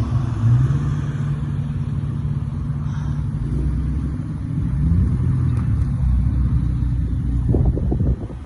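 Car engine running with a low rumble, its pitch dipping and rising slightly with the throttle, then dropping in level near the end.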